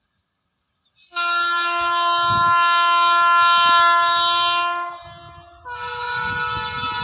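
WAG-9 electric locomotive sounding its horn: a long blast that starts about a second in and stops near 5 s, then a second long blast on a different note, over the low rumble of the moving train.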